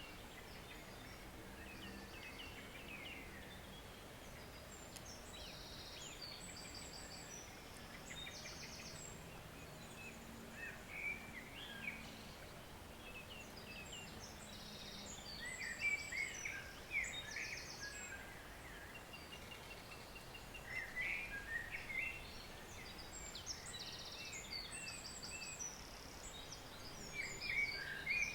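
Forest birds singing over the steady, faint rush of a stream. One bird repeats a short, high song phrase about every nine seconds, among scattered chirps from others.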